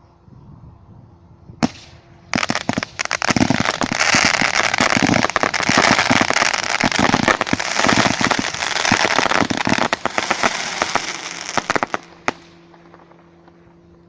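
Fireworks: one sharp bang, then about ten seconds of dense, rapid crackling and popping that fades away, and one more sharp bang near the end.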